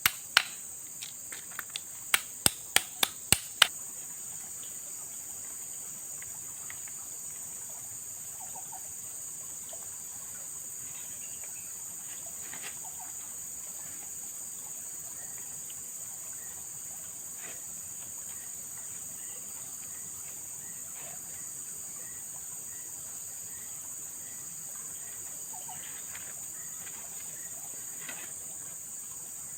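Steady high-pitched drone of forest insects. In the first few seconds there is a quick run of about half a dozen sharp knocks, and faint scattered chirps come later.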